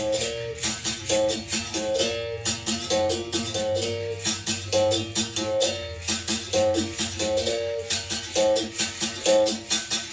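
Berimbau played in a steady repeating rhythm: the stick strikes the steel wire and the twang shifts and bends between pitches. A shaken rattle sounds along with the strikes.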